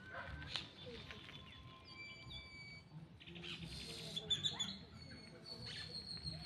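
Birds calling with thin whistled notes and quick chirps, against the scuffing and crunching of footsteps over debris.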